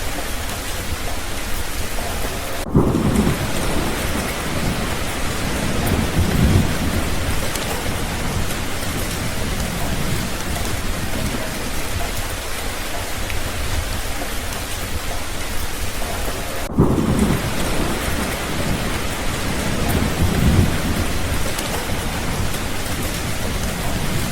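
Steady heavy rain with two rolls of thunder, one a few seconds in and one about fourteen seconds later. Each starts suddenly, then swells again a few seconds on.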